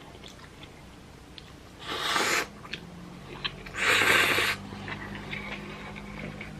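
Two loud slurps of spicy ramen noodles, about two seconds apart, each lasting about half a second.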